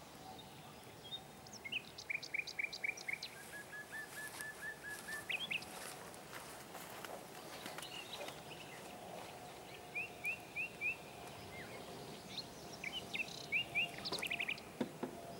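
Small songbirds chirping: several quick runs of short, repeated high notes, each run of about five to eight notes, over a faint outdoor background.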